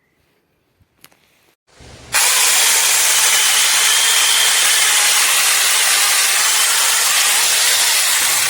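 A few clicks about a second in, then a SEESII 6-inch cordless mini chainsaw starts up and runs loud and steady for about six seconds, cutting off at the end.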